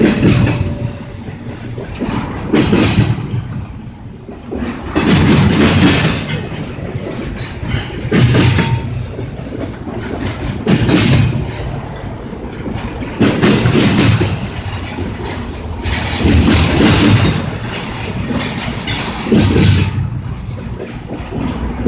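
A train running past, its noise swelling and fading in a regular rhythm about every three seconds.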